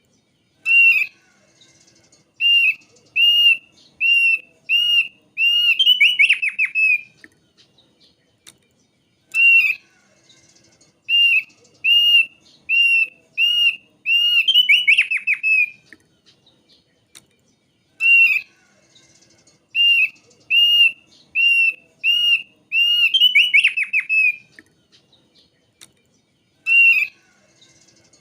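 Thick-billed heleia (opior paruh tebal) song: a phrase of about eight clear, arched whistled notes that ends in a quick rattling trill, repeated the same way about every nine seconds, three times. It is a looped lure recording used to coax captive birds into singing.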